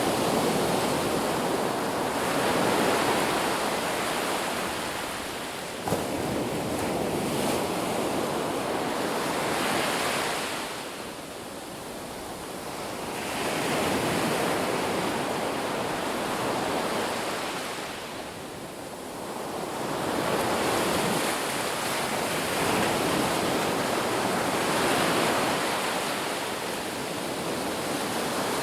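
Ocean surf breaking and washing on a beach: a continuous rush of water that swells and eases as the waves come in, twice dropping into a softer lull. A single brief click sounds about six seconds in.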